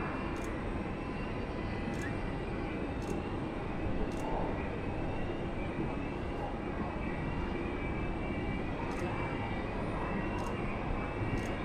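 Jet airliner engines running at a distance: a steady, even rumble with a faint high whine.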